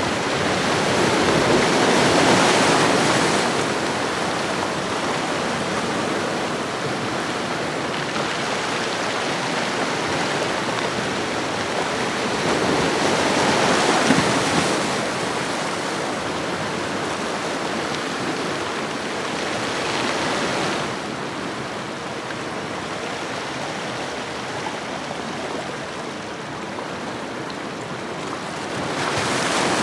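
Ocean waves washing onto a shore: a steady rushing wash that swells louder as waves break, about 2 s in, around 14 s, around 20 s and again near the end.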